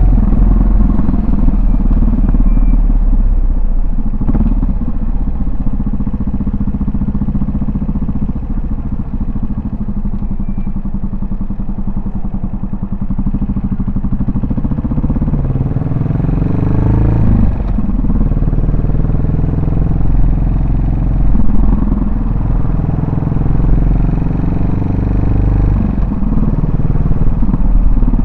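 Yamaha SR400's air-cooled single-cylinder four-stroke engine running under way, its exhaust note steady at first. About halfway through the pitch rises as the bike accelerates, then drops sharply at a gear change, with two more rises and drops later on.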